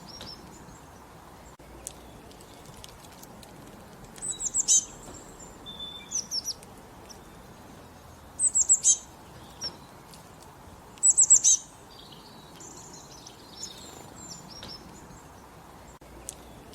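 Songbirds singing in open country: one bird repeats a short, loud phrase of quick, high, falling notes three times, a few seconds apart, while other birds chirp more faintly between them over a steady soft hiss of background.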